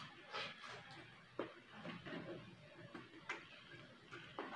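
Person eating by hand close to the microphone: chewing with irregular wet smacks and soft clicks of the mouth.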